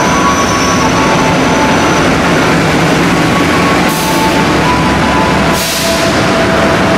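A diesel-hauled passenger train moving through a station, with a steady loud rumble of wheels on rail. Thin steady squealing tones sit over it, and two short hisses come about four and five and a half seconds in.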